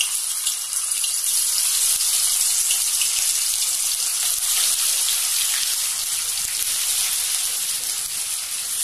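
Marinated chicken pieces frying in hot oil in a kadai: a steady sizzle with fine crackling.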